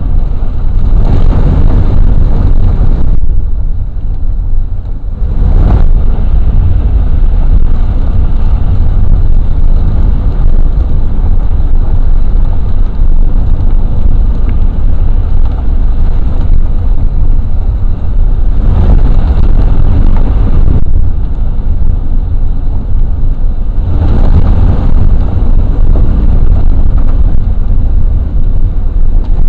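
Wind buffeting the microphone, a heavy steady low rumble, with a few louder hissing surges lasting two to three seconds each.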